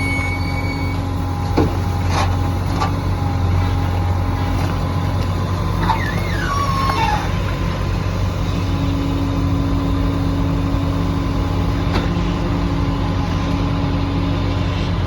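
Hydraulic excavator's diesel engine running steadily, with a few sharp knocks in the first few seconds and a brief wavering high whine about six seconds in.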